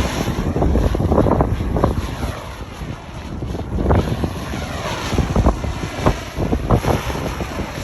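Strong gusting wind buffeting the microphone: a loud, uneven rumble that swells and drops with the gusts.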